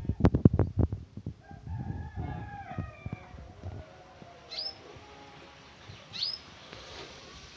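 Caged birds: a second or so of clattering knocks, then a drawn-out call with several falling notes, then two short, sharp, high whistles about a second and a half apart.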